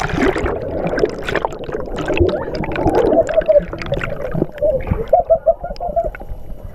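Water splashing around a cardboard boat being paddled, with many voices shouting, including a quick run of repeated short calls about five seconds in.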